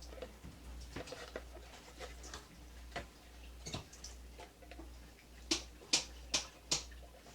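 Light, irregular clicks and taps of small wooden birdhouse pieces being handled and set down on a table, with four sharper taps in quick succession late on. A faint steady low hum sits underneath.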